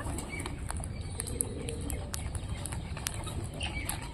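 Parrots: scattered light clicks with a few short, faint chirps over a low background rumble.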